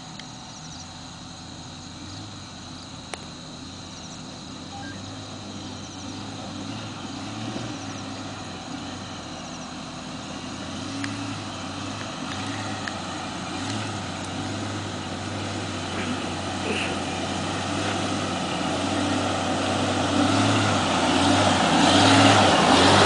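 Jeep Cherokee engine pulling the 4x4 up a steep dirt hill track, growing steadily louder as it climbs closer, its note swelling and dipping with the throttle.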